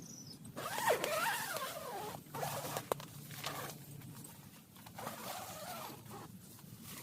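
Two bouts of rustling and squeaky scraping, like fabric or plastic being handled, the first longer, about half a second in, the second about five seconds in, with a faint chirping of insects.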